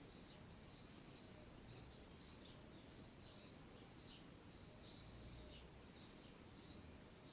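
Near silence, with faint chirping of small birds in the background: short, high, falling chirps, a few each second, over a low rumble.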